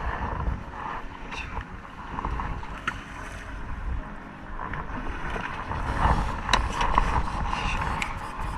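Wind buffeting the microphone and water noise on a small fishing boat at sea, with a few light knocks.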